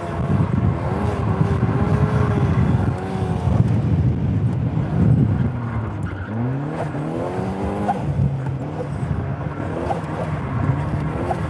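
Turbocharged 1.8-litre Mazda BP four-cylinder engine of an Exocet track car, heard from the cockpit under hard driving, revs rising and falling through the corners. The pitch dips about six seconds in, then climbs again.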